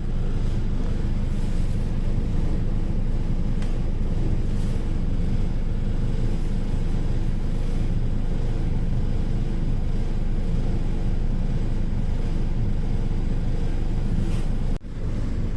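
Train running, a steady low rumble with a few faint clicks; the sound breaks off briefly about a second before the end.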